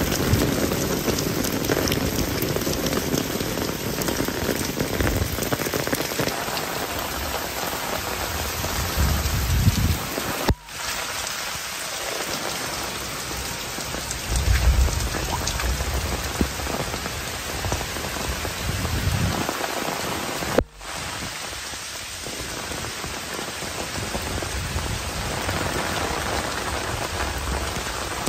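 Heavy rain pouring steadily on roofs, fences and a wet paved lane, with runoff splashing from the eaves. Low rumbles come and go under the hiss, and the sound drops out for an instant twice, about ten and twenty seconds in.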